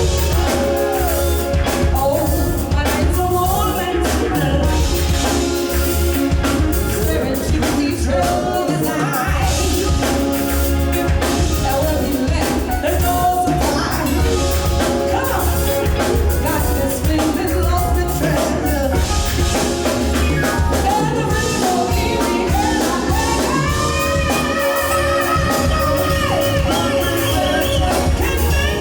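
Live band with drum kit and bass playing an R&B song, with a lead vocal singing over it.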